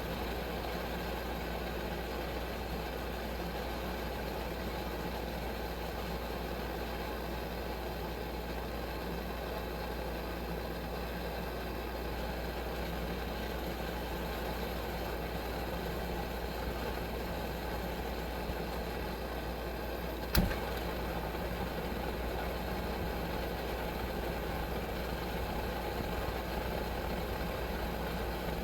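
Coleman 523 military gasoline stove burning steadily with an even rushing hiss; the owner suspects its generator is not working right. One sharp click about 20 seconds in.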